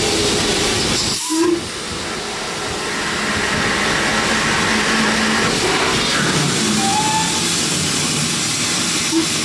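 Steam locomotive letting off steam in a steady, loud hiss, broken briefly about a second in.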